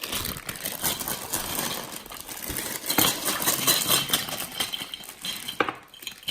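Rustling and clicking of takeout food containers and their packaging being handled, with a sharper click about 3 s in and another near the end.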